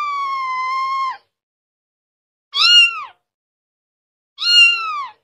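Cat meowing: a long, high, falling meow that ends about a second in, then two shorter meows that rise and fall, one near the middle and one near the end.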